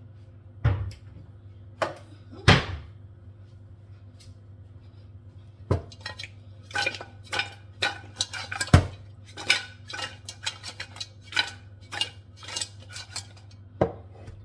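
Kitchen dishes and utensils clattering: irregular knocks and clinks of crockery and cutlery, thickest in the second half, over a steady low hum.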